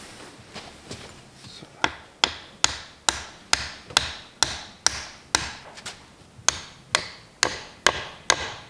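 Hammer blows in a steady rhythm, about two a second, from about two seconds in, each with a short ringing tail; a few lighter taps come before.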